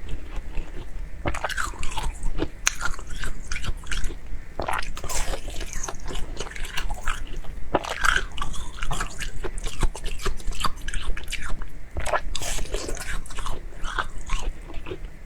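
Close-miked mouth sounds of eating: irregular biting and chewing, with frequent sharp crunches and wet smacks.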